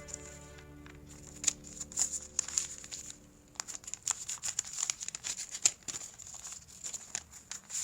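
Crinkling and rustling of packaging being handled by hand, with irregular light clicks and taps.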